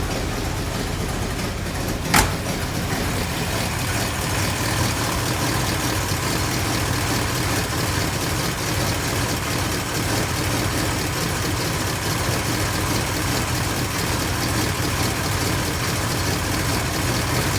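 1957 Corvette's 283 small-block V8 idling steadily after a cold start. One sharp snap stands out about two seconds in.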